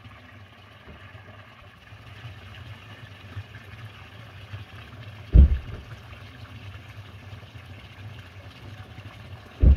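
A steady low engine hum, broken by two heavy low thumps, one about five seconds in and one near the end.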